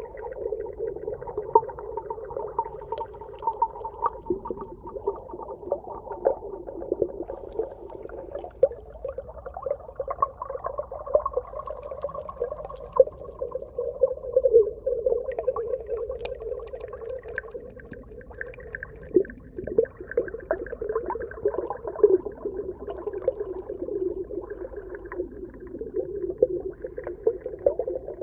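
Underwater ambience: long, wavering moan-like calls held over a steady low hum, with scattered clicks and pops throughout.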